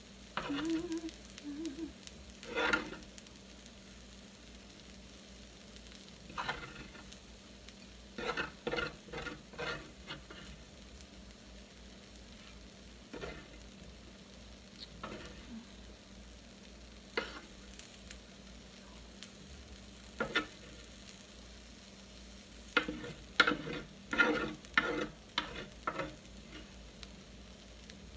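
A hot grill pan sizzling steadily, with short scrapes and clinks of a cooking utensil against the pan coming in scattered strokes, busiest about eight to ten seconds in and again near the end.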